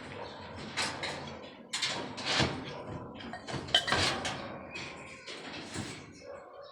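Construction work with hand tools: irregular scraping and knocking, about half a dozen sharp strokes among rasping noise.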